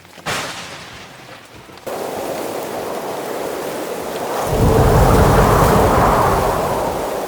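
Thunderstorm sound effect. A sudden crack of thunder is followed by steady heavy rain starting about two seconds in, then a loud rolling rumble of thunder from about four and a half seconds in that slowly fades.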